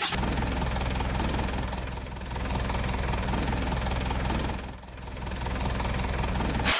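Tractor engine running steadily with a fast, even knocking beat. It eases off briefly about two seconds in and again near five seconds, then stops abruptly.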